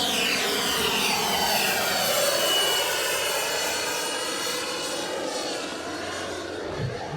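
A turbine RC helicopter with a JetCat PHT3 turbine flying: a steady high turbine whine over rotor and exhaust rush. The sound sweeps and phases as the helicopter moves about.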